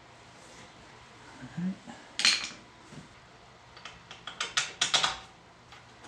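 Steel parts being fitted by hand clink and clank: a loud clank a little after two seconds in, then a quick run of metal clinks around four to five seconds in.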